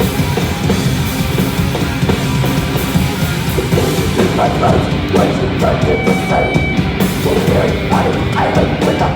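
Loud, heavy, distorted hardcore punk played by a band: electric guitars and a drum kit going without a break.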